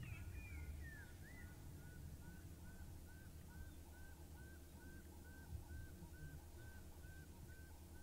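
A bird whistling one short, distinct note over and over, about two to three times a second, after a couple of falling whistles in the first second.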